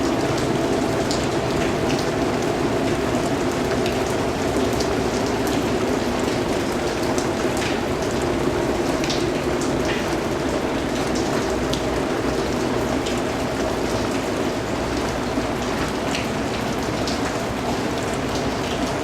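Steady rainfall, an even hiss of rain falling on surfaces with scattered individual drop ticks.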